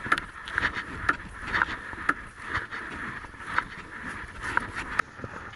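Rainwater being pumped out of a rowboat by hand, with a short sharp sound about twice a second on each stroke. Low wind rumble on the microphone underneath.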